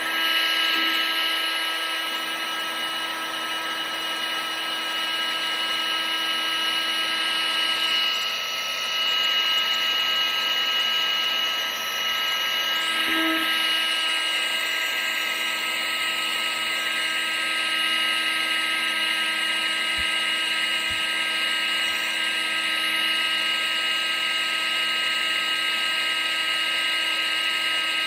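A household appliance's electric motor and fan running steadily, giving a constant rush of air with a steady whine on top.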